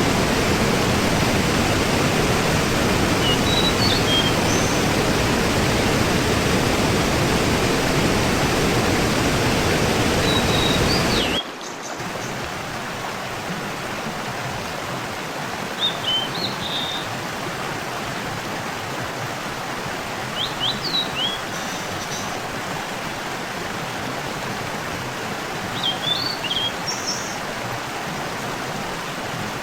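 Steady rush of a waterfall with small birds chirping over it now and then. About eleven seconds in, the rush drops suddenly to a quieter, thinner level.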